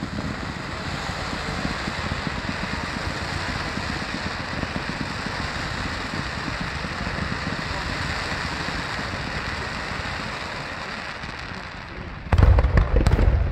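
Fireworks: a steady, dense crackling hiss for about twelve seconds, then a run of loud bangs near the end.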